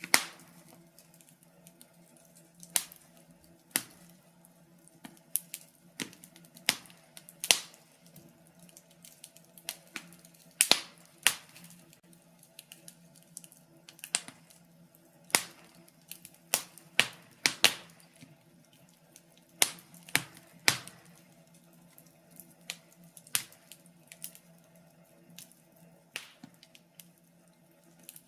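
Wood fire crackling: irregular sharp snaps and pops, clustered at times, with several louder cracks among them, over a faint steady hum.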